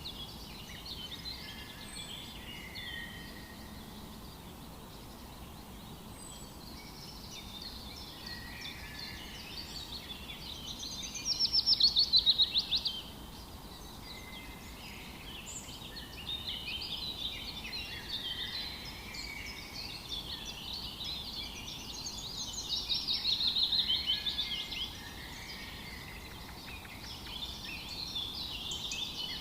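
Many wild birds chirping and singing together, with two louder rapid trills that fall in pitch, one about eleven seconds in and another about twenty-three seconds in.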